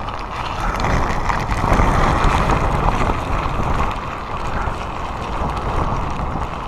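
Typhoon wind blasting across a phone's microphone: a loud, rushing noise that swells in a gust about two seconds in and eases again.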